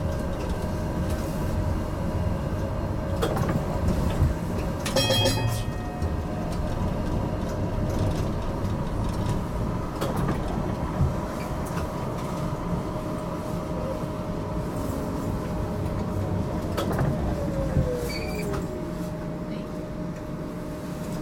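GTL8 articulated tram heard from on board while running: a steady electric hum over the rumble of wheels on rails, with scattered knocks. About five seconds in comes a brief, rapid, high ringing rattle. Near the end a whine glides down in pitch as the tram slows.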